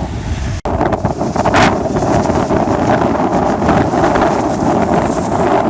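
Strong blizzard wind buffeting the microphone: a loud, rough, continuous rumble. It cuts out for an instant about half a second in.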